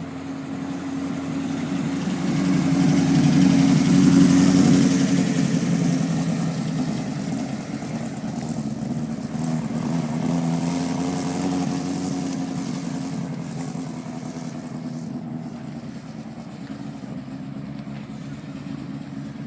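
Car engines pulling slowly past at low revs. The sound grows loud about four seconds in, swells again around ten seconds, then slowly fades.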